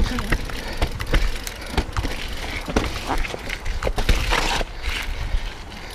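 Mountain bike ridden slowly over a rough, technical trail: tyres crunching over the ground and the bike clattering with frequent irregular knocks, over a low rumble.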